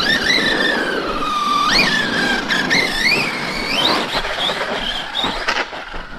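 Electric RC monster truck's brushless motor and drivetrain whining, the pitch sweeping up and down as the throttle is blipped, with several sharp rises in the middle. The whine fades out near the end.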